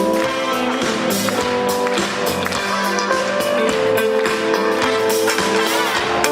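Live band playing an instrumental passage with no singing: strummed guitar over long held notes, with a steady percussive beat.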